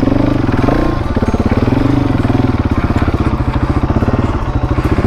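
Husqvarna 701 Enduro's single-cylinder engine running at low revs, its beat slowing and quickening again, with a brief rise in revs a little under a second in.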